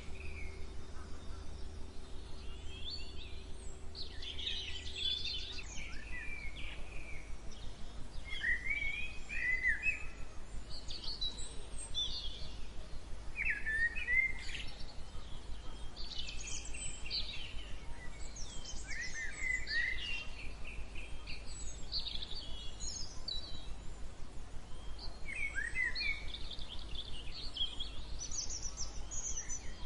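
Wild birds singing and chirping in short, scattered phrases, several voices overlapping, over a steady low background rumble.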